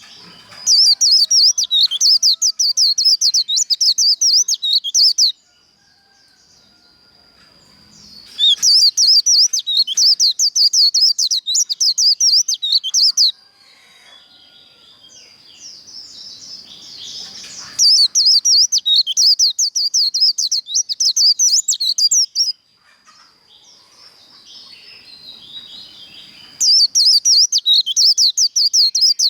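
White-eye (vành khuyên) singing its fast, twittering 'líu' fighting song, the competitive song used to fire up other white-eyes. It comes in four loud bouts of about four seconds each, with softer chirps and a faint steady high tone in the gaps.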